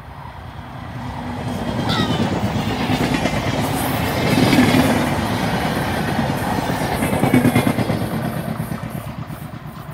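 A train passing at speed close by, with rapid clatter of wheels on the rails. It builds over the first couple of seconds, stays loud through the middle and fades away near the end.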